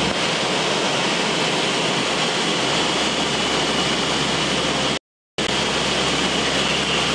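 Steady drone of a C-130's four turboprop engines and airflow, heard inside the cockpit in flight. The sound cuts out completely for about a third of a second, around five seconds in.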